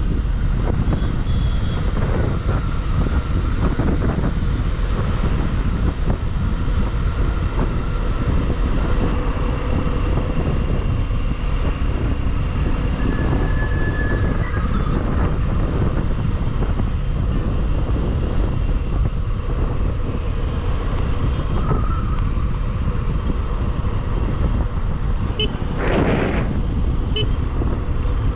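Motorcycle riding along a road at speed: a steady rush of wind and engine noise, with other vehicles' horns sounding now and then and one short, louder horn blast near the end.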